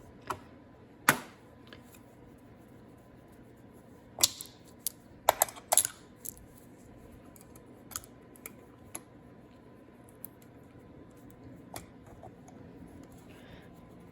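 Scattered sharp metallic clicks and clacks of small parts being handled: a valve spring height micrometer, spring retainer and valve locks being set in place on a cylinder head. The loudest clacks come about a second in and in a quick cluster around the middle.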